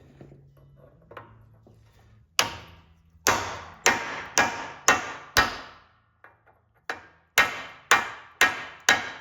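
Hammer blows on steel, about two a second with a short pause midway, each with a bright metallic ring, trying to drive a worn bushing out of a Bobcat T190 skid steer's Bobtach.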